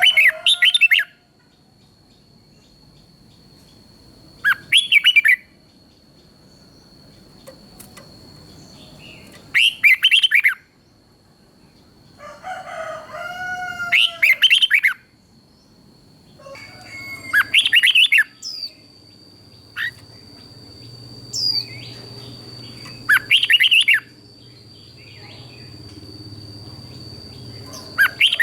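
Red-whiskered bulbul singing short, bright whistled phrases, each about a second long, repeated every four to five seconds over a thin steady high tone.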